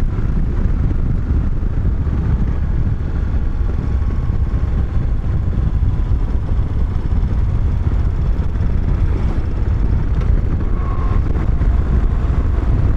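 Moto Guzzi V-twin motorcycle cruising steadily, its engine under a heavy, even rumble of wind on the microphone.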